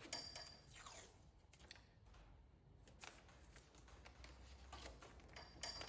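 Faint rustling and scraping of paper and tape being handled and pressed down, in a few short strokes.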